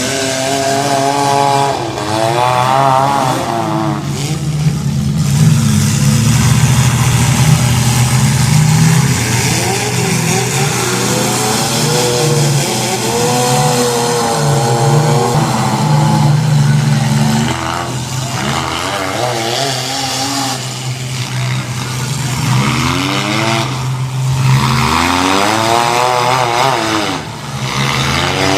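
Demolition derby car engines running and revving, several at once, with engine notes rising and falling repeatedly over a steady low drone.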